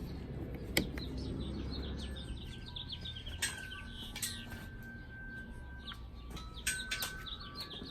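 Birds chirping: a quick run of short, falling chirps in the first few seconds, then a few held whistled notes, with several sharp clicks in between.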